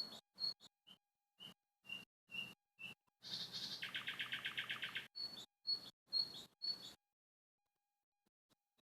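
Songbird singing: short high chirps, then a fast trill of about ten notes a second, then more chirps. The song stops about seven seconds in.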